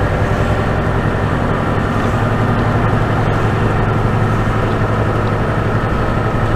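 Tractor-trailer's diesel engine running steadily under way, heard from inside the cab as an even low drone mixed with road noise.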